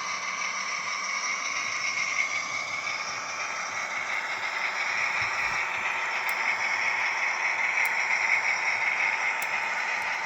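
Model V142 diesel locomotive running along a model railway track: a steady mechanical running sound with a light rattle, growing a little louder in the second half.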